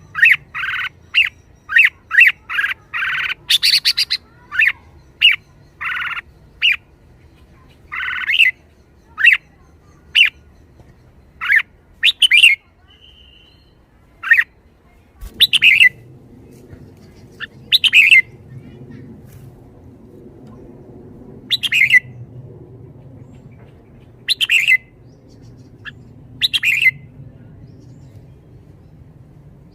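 Red-whiskered bulbul calling: a fast string of short, loud notes over the first several seconds, then single brief phrases every two seconds or so.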